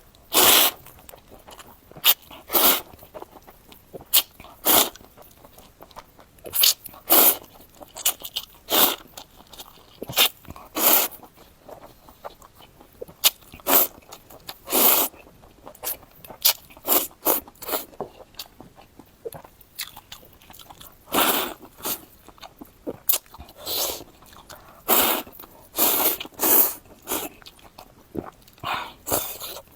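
Close-miked eating of spicy Korean fire noodles: slurps and chewing in short, loud bursts at an irregular pace, a few every couple of seconds.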